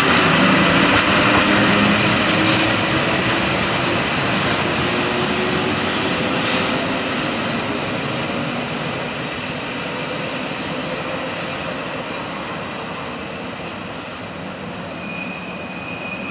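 Flåm Railway electric passenger train running along the track, its rumble and rush fading steadily as it moves away. A thin high squeal, typical of wheels on curved track, comes in near the end.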